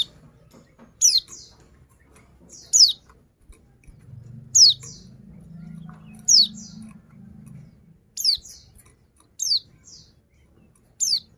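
Female white-eye (pleci) giving a short, sharp, high call that falls steeply in pitch, repeated about every one and a half seconds. It is the female's call that draws a reluctant male white-eye into song.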